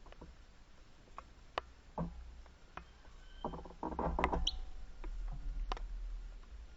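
Outdoor bird sounds: scattered light clicks and taps, with a short burst of pitched calls around the middle and one brief high chirp just after, over a low rumble.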